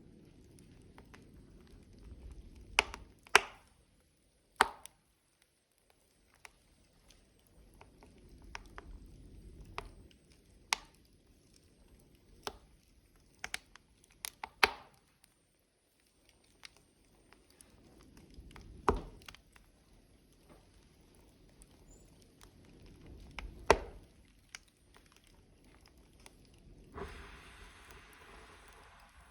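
Wood logs burning in a stove, crackling with irregular sharp pops, a few of them loud, over a low rumble of the flames that swells and fades. A hiss lasting about two seconds comes near the end.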